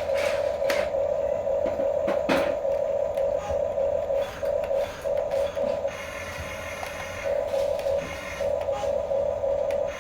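Radio-controlled toy construction vehicle's small electric motors and plastic gearbox whining, stopping and starting several times as the controls are worked, with a few sharp plastic clacks.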